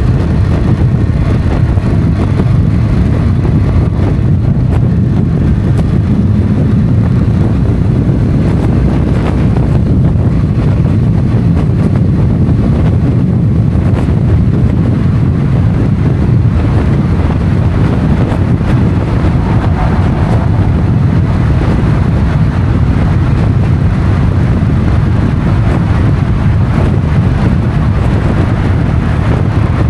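Motorcycle running steadily on the road, mixed with heavy wind rumble on the microphone.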